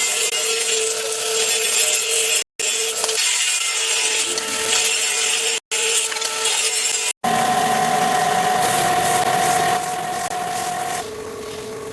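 Power tools cutting and working wood, a steady motor hum under a harsh rasping hiss, breaking off sharply three times as the sound jumps between clips. Over the last few seconds a higher-pitched motor tone runs, then the level drops.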